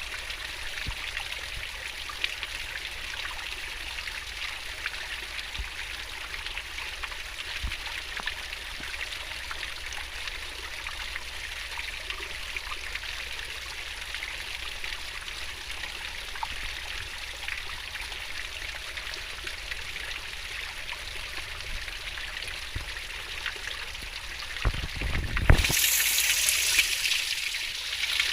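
Swift-flowing stream water babbling steadily over rocks. A brief low rumble comes about 25 seconds in, and after it the water sounds louder and brighter.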